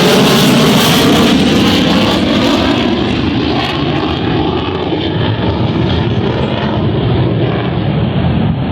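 Aircraft engine noise of a plane passing. The loud hiss is strongest at first and its high end dies away after about three seconds as the plane moves off, leaving a lower steady engine noise.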